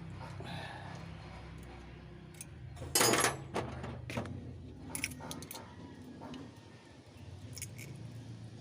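Metal hand tools clinking and rattling against engine parts: a loud rattle about three seconds in, then a few sharp single clicks, over a low steady hum.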